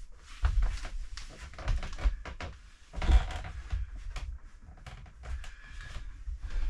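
Scattered knocks and thumps of a desk top being handled and carried down a flight of stairs, with a louder thump about three seconds in.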